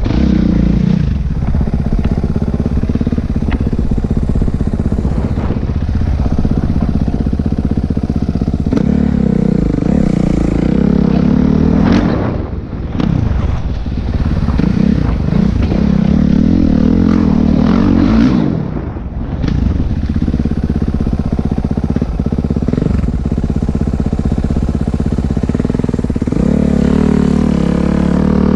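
Dirt bike engine running while riding, revving up and down with the throttle and easing off briefly twice, about halfway through and again a little later.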